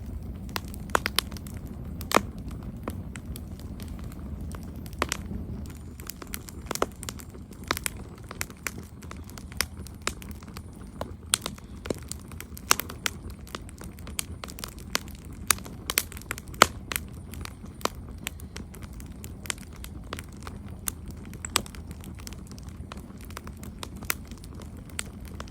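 Campfire burning with irregular sharp crackles and pops over a low steady roar of flames.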